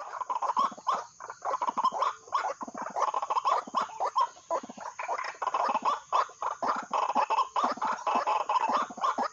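White-breasted waterhen (ruak-ruak) calling: a long unbroken run of short repeated calls, several a second.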